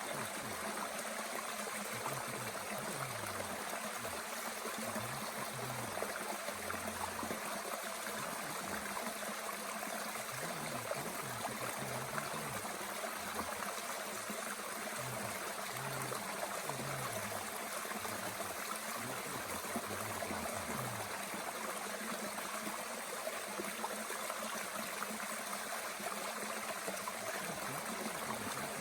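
A mountain stream running steadily, a constant rushing and trickling of water.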